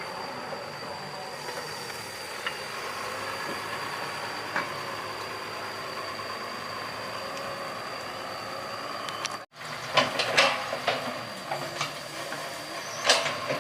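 Hydraulic excavator running steadily, with a thin high whine over the engine noise. After a brief break about two-thirds through, it gives several sharp metallic clanks and knocks, and another loud one near the end.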